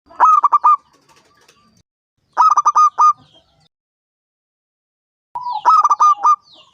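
Zebra dove (perkutut) cooing: three short phrases, each a quick run of staccato coos, about two and a half seconds apart.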